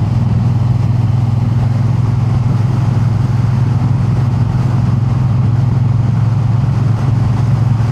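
Triumph Bonneville T100's air-cooled parallel-twin engine running at a steady, even pitch while the bike is ridden along the road.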